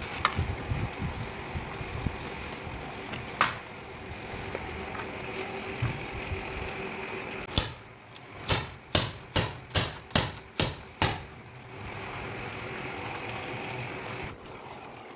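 A run of about eight quick, sharp metal taps a little past the middle, with single taps near the start and about three seconds in, over a steady hum: a body panel being tapped during paintless dent repair.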